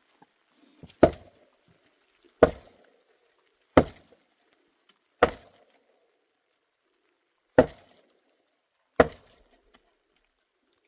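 An axe chopping wood: six heavy single strokes, each about one and a half seconds apart, with a longer pause after the fourth.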